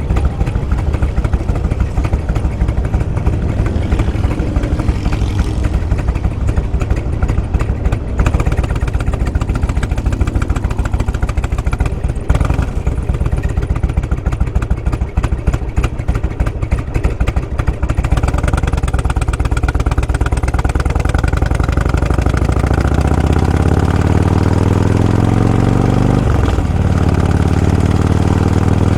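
Motorcycle engine running under way with a steady low rumble. In the last several seconds it pulls harder, its pitch rising, with a brief break in the rise before it climbs again.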